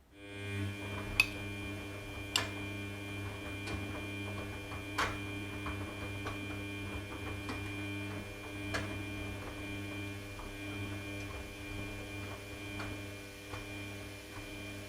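Washing machine motor starting and then running with a steady electric hum and a high whine. Sharp clicks or knocks come at irregular intervals, the loudest about a second in.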